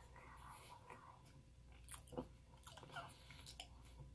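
A person quietly chewing a bite of almond cookie, with a few faint crunchy mouth clicks.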